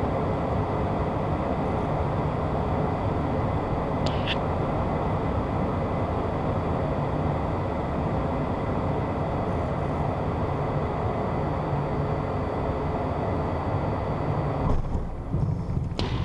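Steady rush of engine and airflow noise inside the cockpit of a Beechcraft Premier 1 business jet, with a faint steady high tone. Near the end the noise drops and turns uneven.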